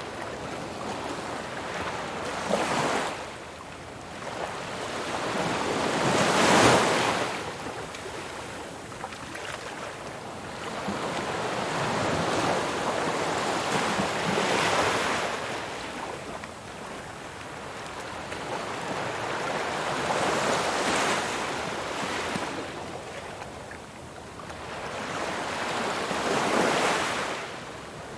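Ocean surf: waves breaking one after another, each swelling to a rush of noise and washing back, every four to six seconds, the loudest about seven seconds in.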